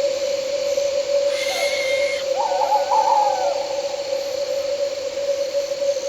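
An owl calling over a steady night-insect drone: a short harsh call about a second and a half in, then a wavering, quavering call around the three-second mark.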